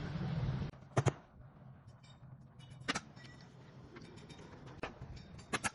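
A steady hiss-like noise cuts off under a second in. Then come a few sharp clicks or knocks, two of them close together near the end, with fainter ticks in between.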